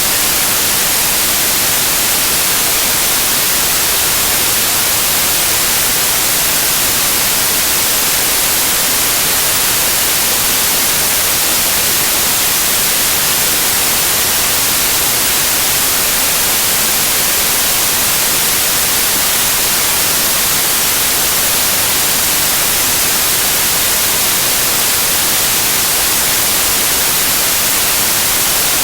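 Loud, steady white noise: an even hiss spread across the whole range of pitch, brightest in the highs, unchanging throughout.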